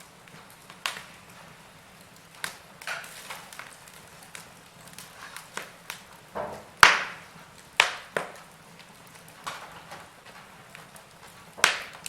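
Wood fire crackling: irregular sharp pops and snaps over a faint hiss, the loudest pop about seven seconds in.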